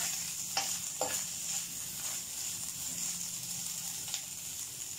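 Shredded boiled chicken and green chillies sizzling in oil in a frying pan, with a metal spoon scraping and tapping the pan a few times as it is stirred.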